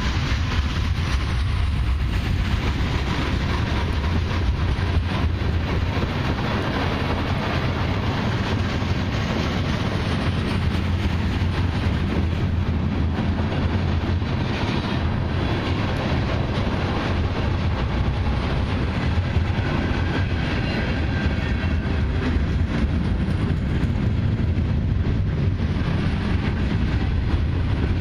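Freight cars of a long CN mixed freight and autorack train rolling past on the main line, a steady loud rumble of wheels on rail that does not let up.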